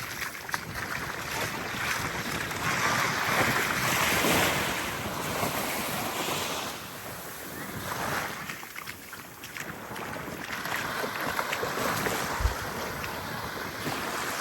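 Small waves lapping and washing onto a sandy beach, swelling and easing every few seconds, with wind gusting on the microphone.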